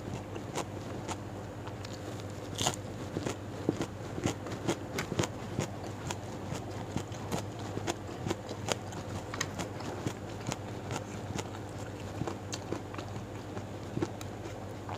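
Close-miked chewing of crunchy raw vegetables with chili sambal: a steady stream of wet mouth clicks and crunches, the sharpest crunch a few seconds in, over a faint steady hum.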